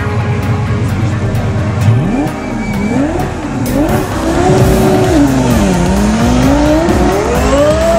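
Twin-turbo Lamborghini Gallardo V10 accelerating hard: after a steady low drone for about two seconds, the engine pitch climbs and drops several times with gear changes, then rises in one long pull near the end.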